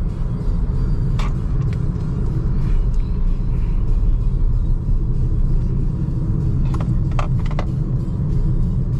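Steady road and tyre rumble inside the cabin of a BYD Seagull electric car driving on an expressway, with no engine note. A few short sharp clicks come about a second in, and three more come close together near the end.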